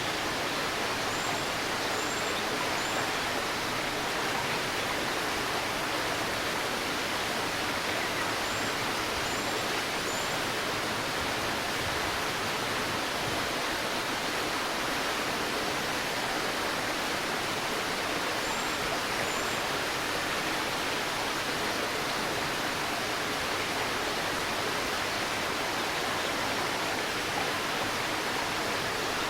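Steady babbling of a shallow river flowing over stones, with a small bird's faint, short, high chirps in three brief runs of two or three notes.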